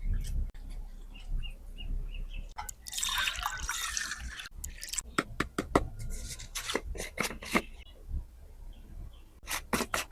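Kitchen food-preparation sounds: a short pour or splash of liquid lasting about two seconds, followed by a run of sharp clicks and taps from utensils or containers.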